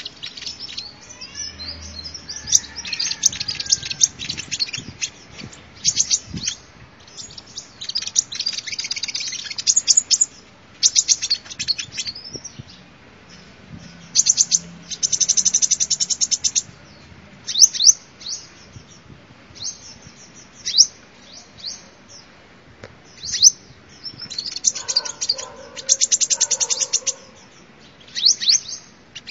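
Sunbird singing: repeated runs of high, rapid chirps and trills with short pauses between them.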